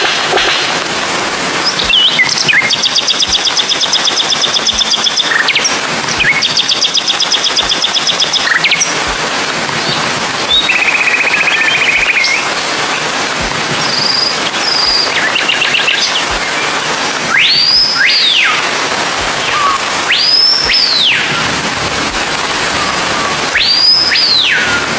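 Birds calling over a steady hiss: two long rapid trills early on, a buzzy call around the middle, then three separate arching whistled calls that rise and fall in pitch near the end.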